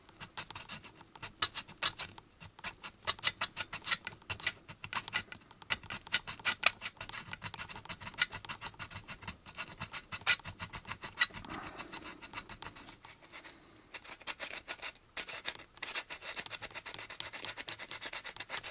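Hand file scraping back and forth across a plastic model-kit part in quick, repeated strokes, cross-filing moulded ridges flat. The strokes ease briefly about two-thirds of the way through, then carry on.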